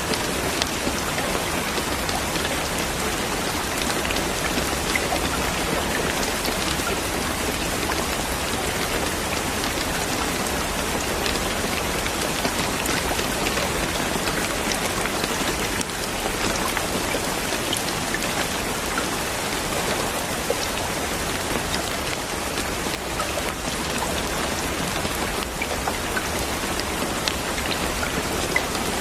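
Steady rain falling on a surface, an even hiss with many small drop ticks and no break.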